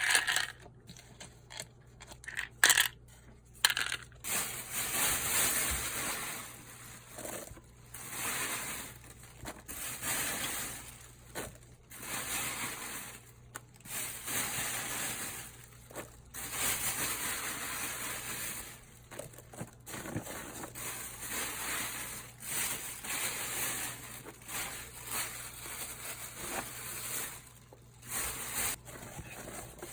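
Slime being kneaded and pressed by hand: a run of irregular squishing bursts, each lasting from under a second to about two seconds, with short gaps between.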